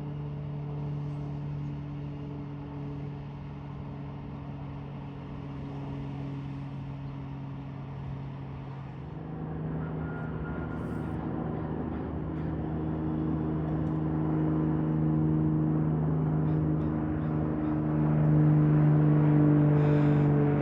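Propeller aircraft engine running with a steady hum. Its pitch steps up about nine seconds in, and it grows louder toward the end.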